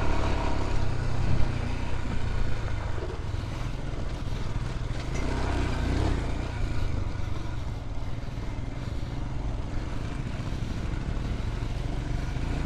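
Motorcycle engine running steadily as the bike is ridden, a continuous low drone.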